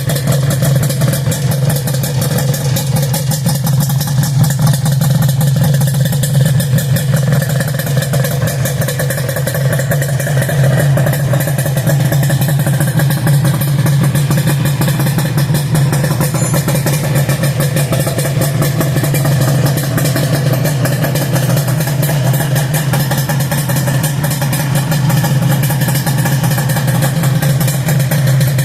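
1983 Suzuki RG250 Gamma's two-stroke parallel-twin engine idling steadily through an aftermarket exhaust.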